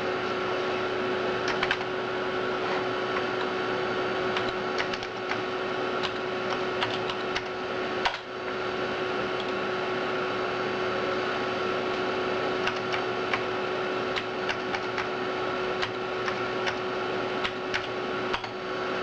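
Amiga 4000's hard drive and power supply running with a steady hum and whine, with scattered light clicks over it.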